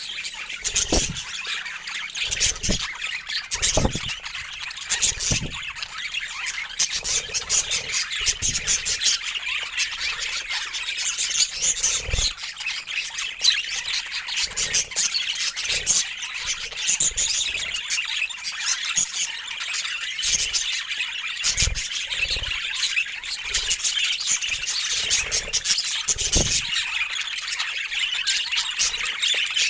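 A group of budgerigars chattering and squawking continuously, a dense run of quick high chirps and warbles, with occasional low thumps mixed in.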